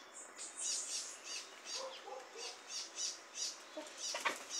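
A bird chirping over and over, short high thin chirps about three a second, with a few low short calls about two seconds in and a brief sharp sound near the end.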